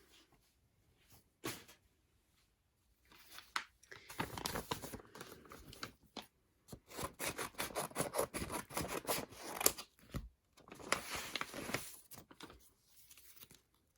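Plastic wrapping around a photocard crinkling and tearing as it is opened by hand, in uneven bursts with short pauses.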